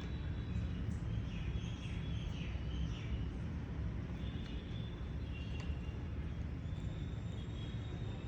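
Steady low background rumble with faint, high bird chirps over it, most of them in the first few seconds.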